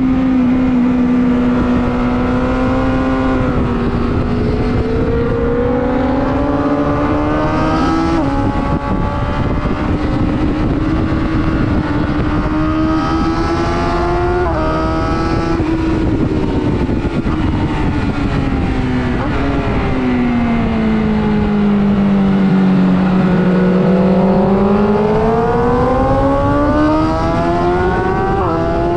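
Sport-bike engine at speed on a race track, climbing in revs and dropping sharply at each of several quick upshifts, with a long fall in revs under deceleration in the middle before pulling hard again, over a steady rush of wind noise.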